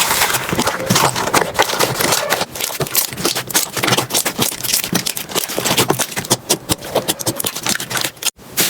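Slime being handled, a dense run of crackling clicks and pops, with a brief break near the end.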